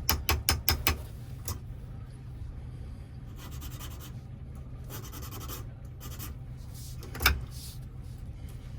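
Small metal parts of a door lock and key being handled: a quick run of light clicks at first, then short scraping rubs, and one sharp click a little before the end, over a steady low hum.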